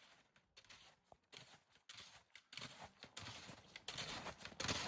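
Faint snowshoe footsteps crunching in snow, irregular at first and coming more often in the second half.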